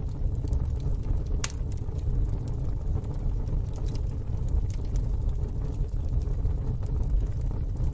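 Wood fire burning in a fire pit: a steady low rumble with a few sharp crackles and pops, the clearest about a second and a half in.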